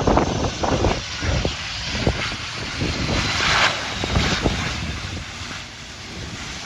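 Strong wind buffeting the phone's microphone in irregular gusts over the steady rush of a nearby aircraft's engines, with a faint high whine.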